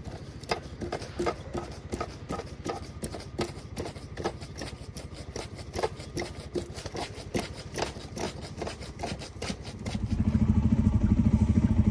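A vehicle engine running low with many irregular clicks and ticks. About ten seconds in, a much louder, steady engine rumble sets in.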